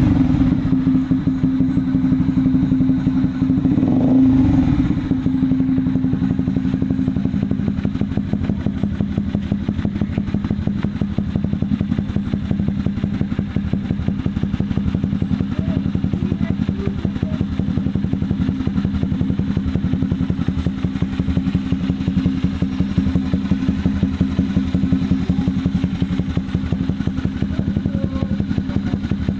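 Honda CB150R's single-cylinder engine idling through an aftermarket SC Project-style slip-on exhaust, with a short throttle blip about four seconds in, then a steady, even idle.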